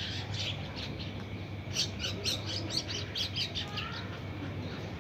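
Small birds chirping: a quick run of short, high chirps, several a second, starting about two seconds in and lasting about two seconds, with a few fainter chirps at the start.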